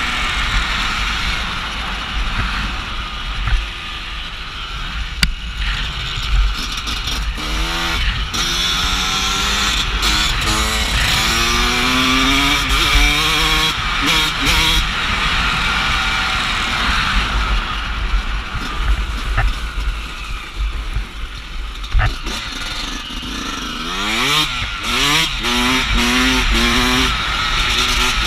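Dirt bike engine revving up and falling back again and again while riding, under a constant low rumble.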